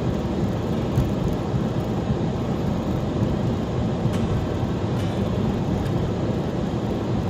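Steady road and engine noise of a vehicle being driven, heard from inside the cab.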